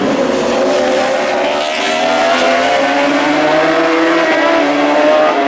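Superbike road-racing motorcycles at high revs, several engines heard at once, their pitches slowly rising and falling over one another.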